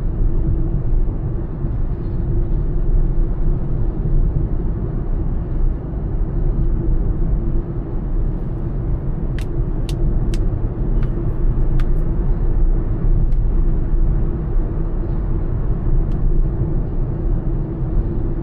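Honda Elevate cruising on a highway: a steady low rumble of road, tyre and engine noise. A handful of short, sharp clicks come about halfway through.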